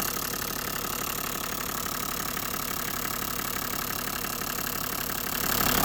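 Toyota 1HD-FTE 4.2-litre straight-six turbodiesel idling steadily with an even beat.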